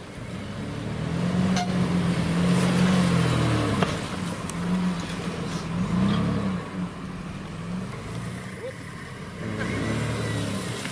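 A 4x4 SUV's engine revving up and down off-road, its pitch rising and falling several times, with a few sharp clicks.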